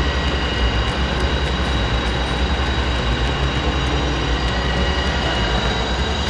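A metalworking machine tool running steadily with a constant high whine, taking metal off a part.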